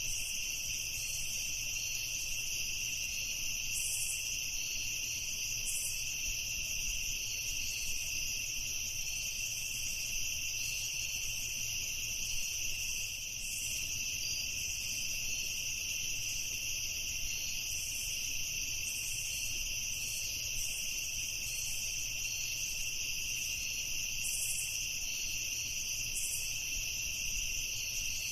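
Chorus of crickets chirping: a continuous high trill with a faster, fainter pulsing chirp above it, steady throughout.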